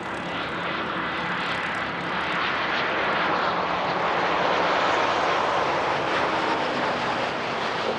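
Business jet's turbofan engines passing on the runway: a steady jet rush with a faint whine, growing louder toward the middle and easing slightly near the end.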